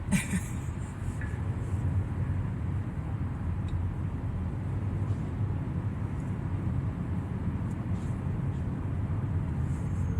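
Steady low rumble of a car in motion heard from inside the cabin: engine and road noise while driving in traffic.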